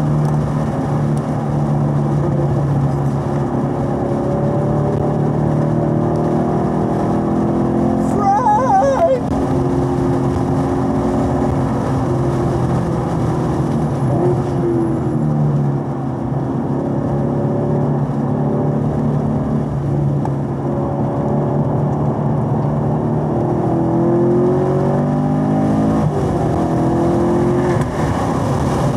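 Chevrolet Camaro SS 1LE's 6.2-litre V8 heard from inside the car on track, running hard in third gear around 4,000 to 5,000 rpm. Its pitch rises on the straights and falls when lifting and braking for corners. A brief wavering high sound cuts in about eight seconds in.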